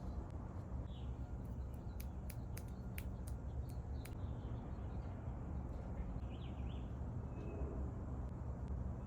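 Faint birdsong: scattered short chirps over a steady low background hum, with a quick run of faint sharp clicks about two to four seconds in.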